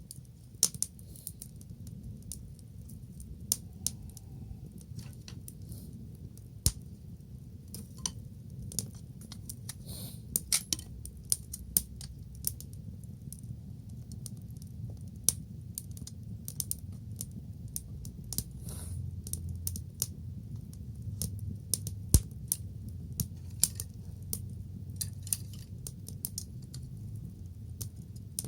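Wood fire crackling, with irregular sharp pops and snaps, a few much louder than the rest, over a low steady rumble.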